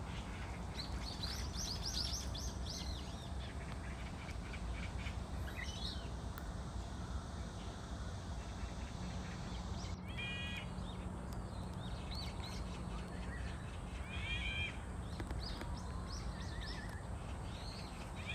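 Small birds chirping and calling at scattered moments, with a few louder calls about ten seconds in and again later, over a steady low background rumble.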